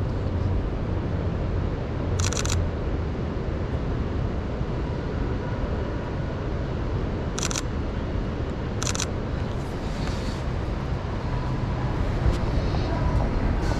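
Sony a6400 camera shutter firing three times in short bursts, over a steady rumble of city street traffic.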